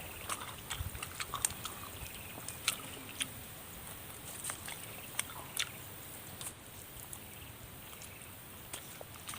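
Close-up eating sounds of spicy chicken feet and noodles: scattered sharp, wet crunches and smacks, thinning out after about six seconds, over a steady background hiss.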